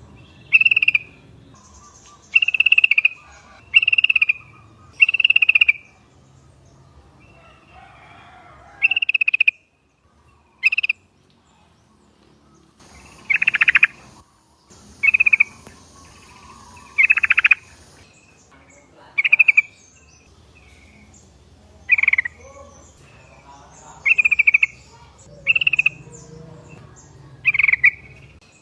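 Sooty-headed bulbuls (trucuk) calling: short, bright chirping notes, one every second or two, with a pause of a few seconds partway through.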